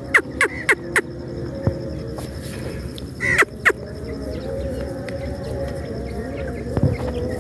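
Grey francolin calling: a quick run of sharp, falling notes, about three a second, that ends about a second in, then two louder notes near the middle.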